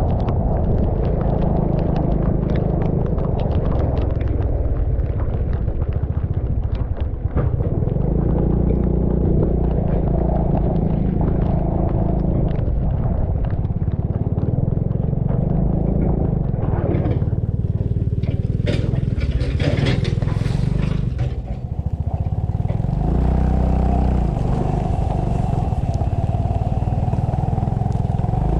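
Motorcycle engine running steadily while riding, a loud low drone throughout. About two-thirds through comes a few seconds of hissing and clattering over it.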